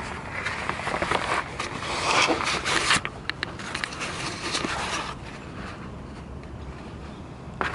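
Rough scraping on metal for about three seconds, then a few light clicks and knocks, and then a quieter steady background.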